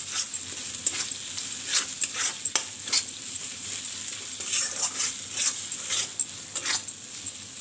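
Onions, green chilli and ginger-garlic paste frying in oil in a metal kadai with a steady sizzle, while a spatula repeatedly scrapes and knocks against the pan as it stirs them.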